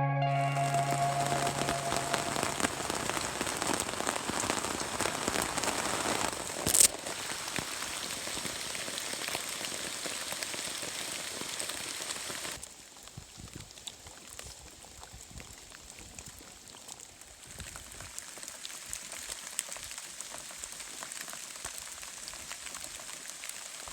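Steady rain falling, a dense even hiss. A single sharp click comes about seven seconds in, and about halfway through the rain becomes noticeably quieter.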